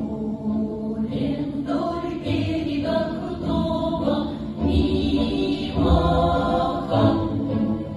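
A Russian folk-song ensemble singing in chorus. The voices come in about a second in over a sustained instrumental accompaniment.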